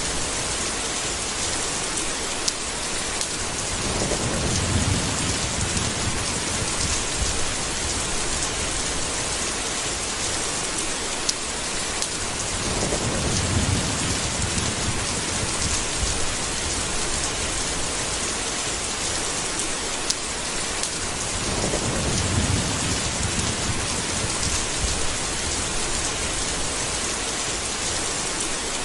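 Steady heavy rain with low rolling thunder rumbling three times, swelling and fading over a few seconds each, with occasional sharp drop ticks.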